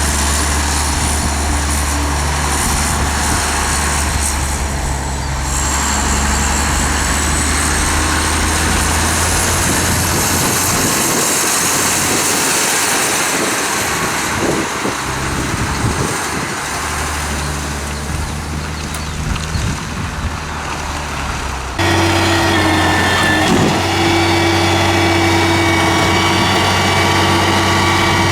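Diesel engine of a 1995 Ford L8000 garbage truck running, with the high whine of its Loadmaster hydraulic pump rising and then falling. About three quarters of the way through the sound changes abruptly to a steadier, lower whine over the engine.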